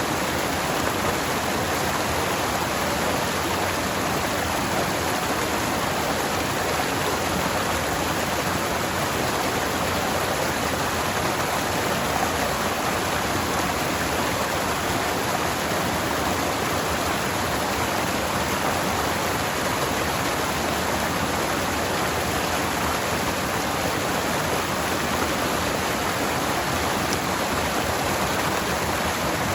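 Forest stream flowing, a steady even rush of water that does not change.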